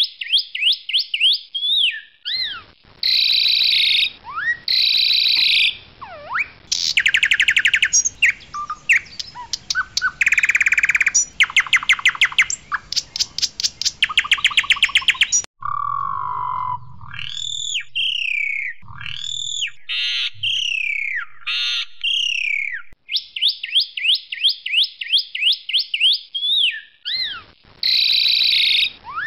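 Jalak suren putih, a pale form of the Asian pied starling, singing loudly and continuously: quick runs of chirps, harsh calls, fast buzzy rattling trills in the middle, then clear whistles that slide up and down.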